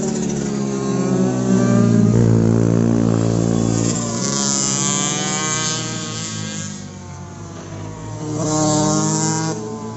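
Motorcycle engines revving and changing pitch as bikes ride past on a kart track. The sound is loudest about two seconds in, and a second bike passes close near the end.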